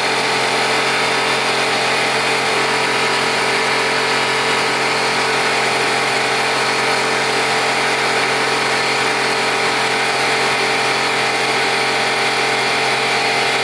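Air compressor running steadily: a loud, even mechanical drone that holds the same pitch throughout.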